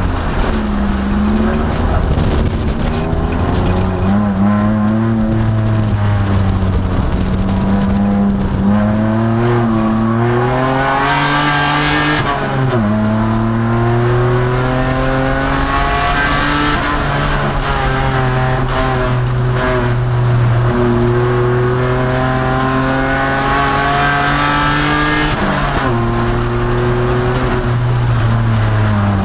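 2002 Nissan Maxima race car's V6 engine running hard, heard from inside the car: the revs climb slowly, dip and recover, and fall sharply about a third of the way in and again near the end, as with gear changes or lifts between corners.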